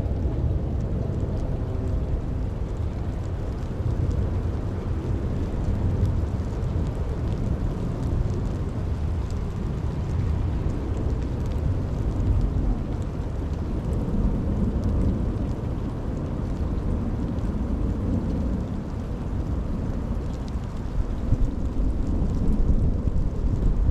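Steady rain with a continuous deep rumble under it and a faint patter of scattered drops.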